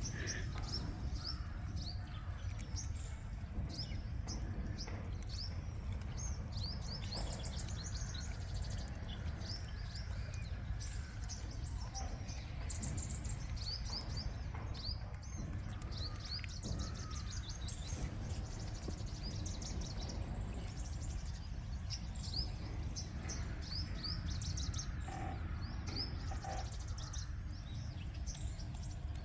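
Small birds chirping: many short, high chirps in quick runs, over a steady low rumble of background noise.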